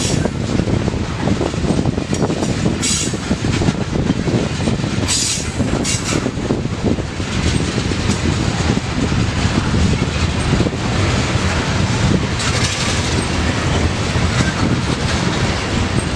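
Freight train cars rolling past, a steady loud rumble of wheels on rail with a faint clickety-clack. Short high-pitched bursts come several times, the longest about 12 to 13 seconds in.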